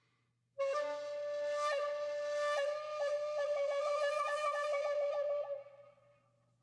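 Background music: a flute holds one long note that starts about half a second in, with a quick trill of about five notes a second through the middle, then fades out.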